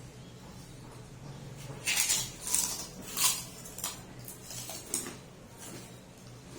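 Eating noises from a meal of fried chicken and raw vegetables close to the microphone: a few loud, crisp, crunchy bursts about two to three and a half seconds in, then softer ones.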